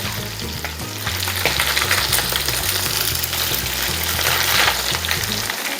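Marinated chicken pieces frying in hot oil in a pot, a steady dense sizzle and crackle.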